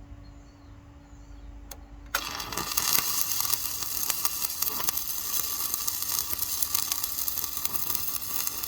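Stick-welding arc from a 3/32-inch 7018 rod at about 80 amps, struck about two seconds in and crackling steadily on steel truck frame as the weld is laid down to seal up thin, contaminated metal.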